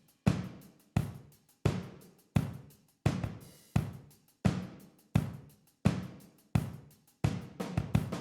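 Drum kit heard through a room-microphone track: a steady beat of hits about every 0.7 seconds, each with a ringing decay from the room.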